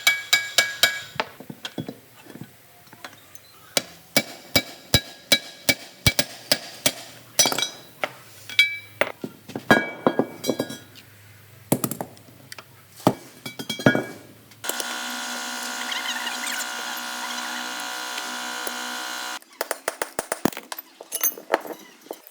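Steel axle parts and hand tools clinking and knocking, with ringing metallic strikes, during work on a wheel loader's rear axle drive assembly. A steady, even machine-like sound runs for about five seconds in the middle, then the clinking starts again.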